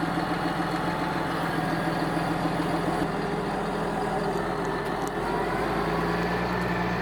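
Tractor engine running steadily; its note shifts about five seconds in.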